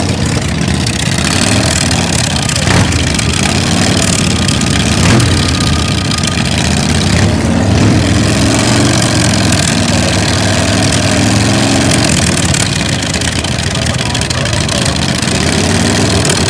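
Custom chopper motorcycle engine running steadily and loudly, mostly at idle, with background crowd noise.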